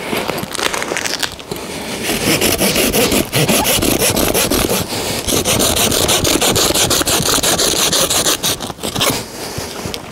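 Hand saw cutting through wood, stroke after stroke in a steady rasping run, with a brief pause near the end.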